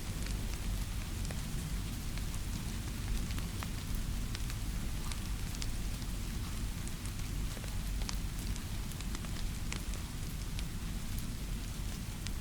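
Steady rainfall blended with a crackling fireplace: an even hiss of rain over a low rumble, with scattered sharp clicks and pops.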